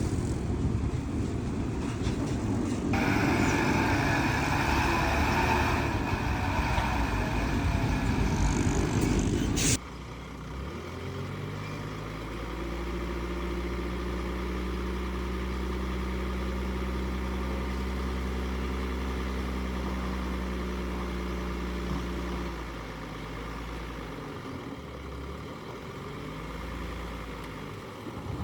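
Heavy diesel earthmoving machinery at work: loud, rough engine noise for the first ten seconds, with a harsher, higher rush added from about three seconds in. Then a sudden cut to one diesel engine running at a steady speed, which drops and wavers near the end.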